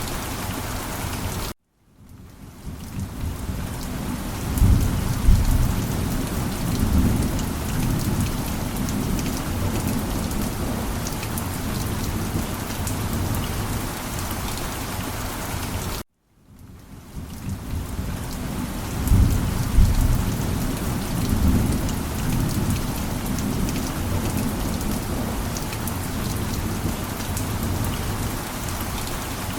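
Steady heavy rain with a low rolling rumble of thunder that swells twice. The whole sound cuts out to silence twice for a moment and fades back in, a repeating loop.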